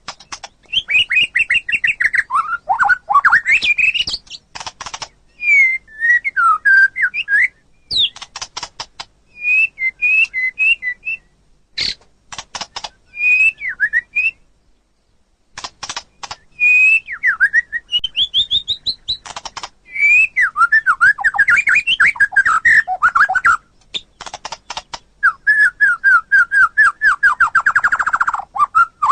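White-rumped shama (murai batu) singing a long, varied song: loud whistled phrases and gliding notes mixed with fast trills and harsh rattling notes, with a brief pause about halfway through and a fast run of repeated notes near the end.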